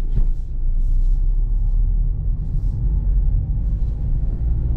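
Mazda MX-5 Miata's 2.0-litre inline-four running steadily at low revs, a low rumble.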